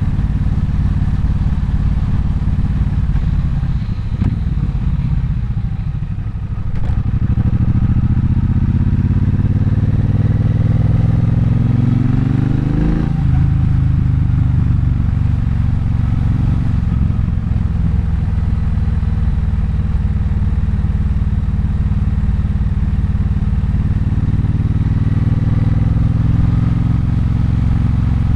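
Triumph Bonneville Bobber's 1200 cc parallel-twin engine running under way. It eases off about five seconds in, then revs up steadily for several seconds before the pitch drops sharply about halfway through, as at a gear change, and settles into a steady cruise.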